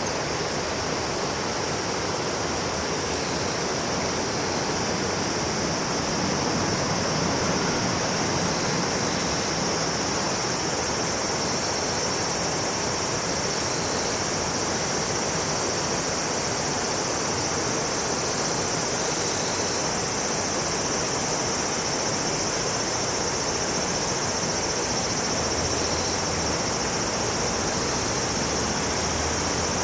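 Steady rush of river water with a continuous high-pitched drone of insects over it.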